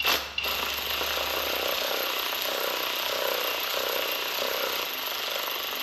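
Handheld power tool running steadily as it drives an exhaust manifold bolt down until it seats, ahead of final torquing.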